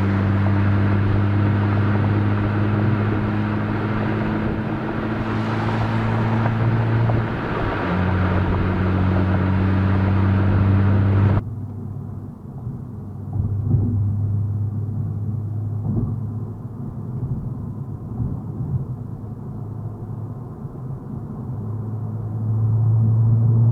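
Exhaust note of a Honda Civic Type R FK8's turbocharged 2.0-litre four-cylinder, fitted with a catted downpipe and the stock cat-back, running steadily as the car drives. About halfway through the sound turns abruptly duller and quieter. Near the end the engine note rises in pitch and gets louder as the car accelerates.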